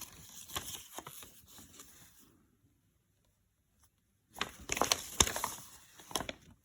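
Packaging being handled during an unboxing, rustling and crinkling with small clicks and knocks. It comes in two spells: a softer one at first, then, after about two seconds of silence, a louder one.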